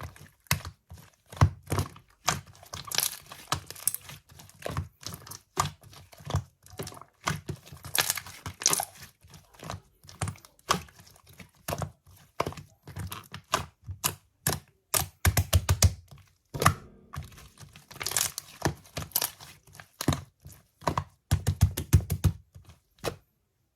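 A sticky, chewy material being squeezed and pulled, giving irregular runs of sharp crackles, clicks and pops with short pauses between them. Quick rapid-fire strings of pops come about two-thirds of the way in and again near the end, then the sound stops.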